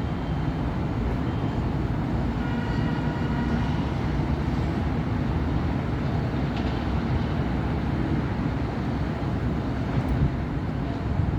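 Busy city avenue traffic: a steady rumble of cars and buses passing, with a brief faint high whine between about two and four seconds in.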